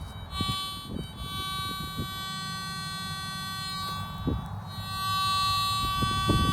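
Garrett ATX pulse-induction metal detector giving a steady buzzing target tone over a buried object. The tone weakens about four seconds in and comes back louder. It is a loud and obnoxious signal, which the listeners take for something big and probably close to the surface.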